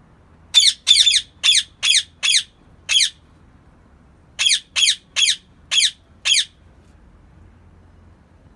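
Indian ring-necked parakeet screeching: two runs of short, shrill, falling calls, about six and then five, with a pause of about a second between the runs.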